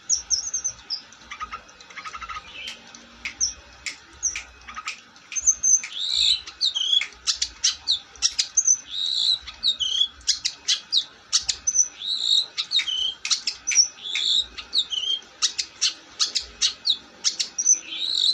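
Long-tailed shrike (cendet) in full song: a fast, unbroken run of sharp, clipped notes mixed with short whistled slurs, growing busier after the first few seconds.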